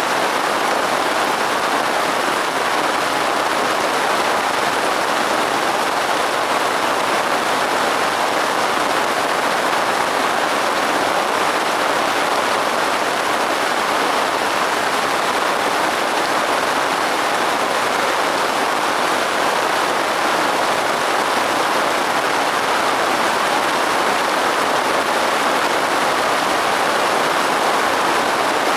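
Steady, soft rainfall: an even hiss of rain with no separate drops standing out and no thunder.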